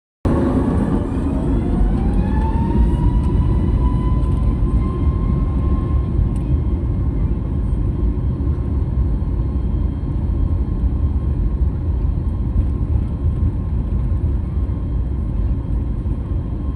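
Jet airliner's engines spooling up to take-off thrust: a whine rises in pitch over the first few seconds and then holds steady over a heavy, continuous rumble.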